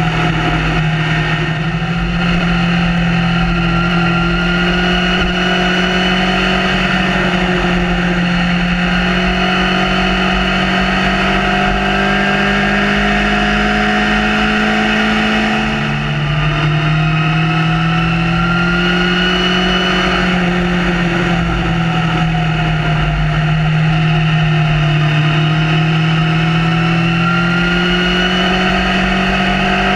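Honda CB1000R's inline-four engine pulling under steady throttle from the rider's seat, its pitch slowly climbing. About halfway through the pitch drops abruptly at one upshift, then climbs again, over a low rumble of wind noise.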